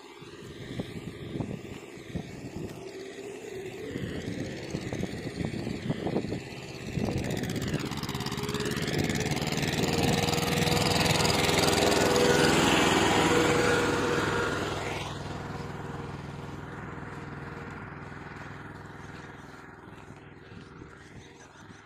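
Tractor engine running, growing steadily louder to a peak a little past the middle and then fading away again.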